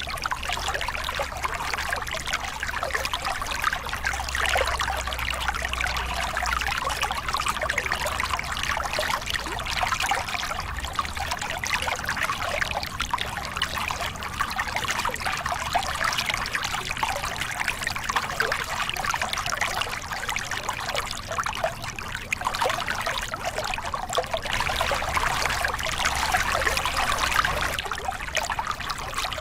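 Small river cascade: water pouring and splashing over rocks in a steady, continuous rush.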